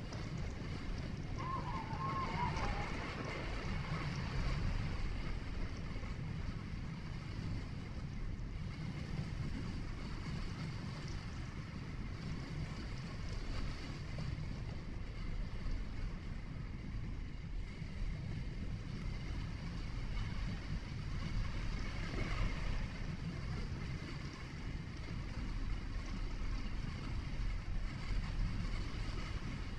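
Steady low rumble of a vehicle driving on a road: tyre and engine noise with some wind noise.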